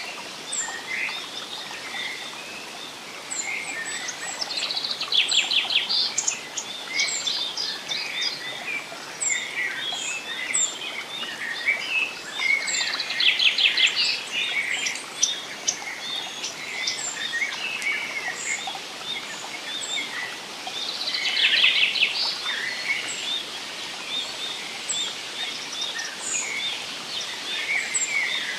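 Forest birdsong from several birds: scattered chirps and a high thin note repeating about once a second, with a louder rapid trill three times, roughly every eight seconds, over a soft steady hiss.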